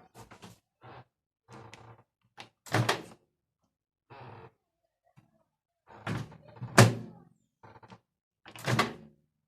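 Winia KOR-660BWW microwave oven door being opened and shut again and again: a series of latch clicks and door thuds, with the loudest knock about seven seconds in.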